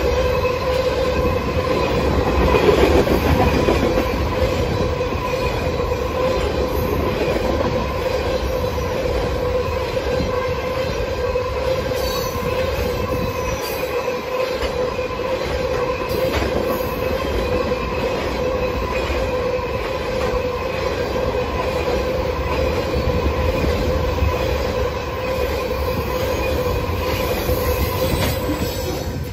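A long freight train of empty oil tank cars rolling past, steady wheel-on-rail noise with a ringing tone held over it. The noise falls away right at the end as the last car passes.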